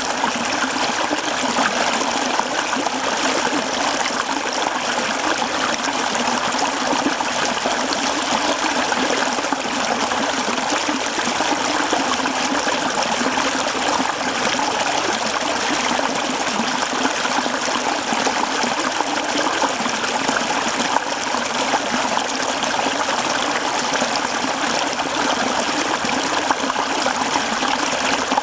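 Mountain stream flowing over rocks: a steady rush and trickle of running water.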